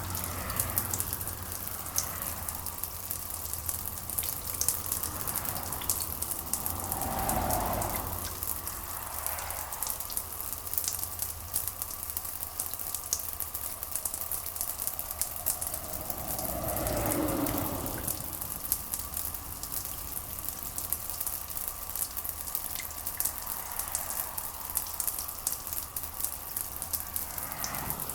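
Steady rain ambience, a dense patter of drops with a fine crackle, with two slow swelling rumbles, one about a quarter of the way in and one past the middle.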